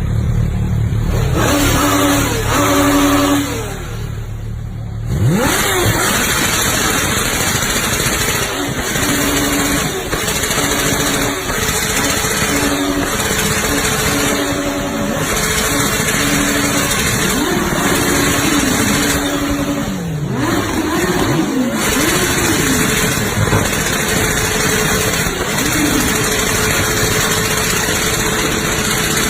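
Kawasaki Ninja H2R's supercharged inline-four engine revving up and down again and again, with a sharp rise in revs about five seconds in.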